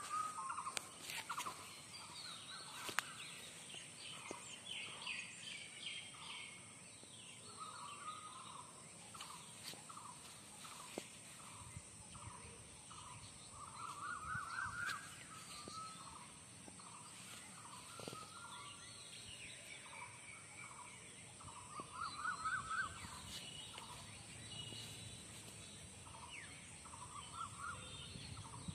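Birds calling: one bird repeats runs of short notes that climb in pitch, every several seconds, while other birds chirp higher and softer.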